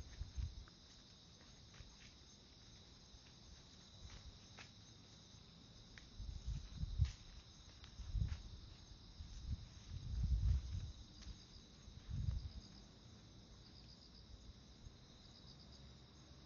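Insects chirping steadily in a high, thin band, with a short pulsed trill repeating every second or so in the second half. A handful of low, muffled bumps come between about six and twelve seconds in.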